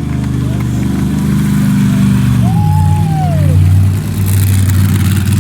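Monster truck engine running loud at high revs, its note dropping to a lower, steady pitch about halfway through.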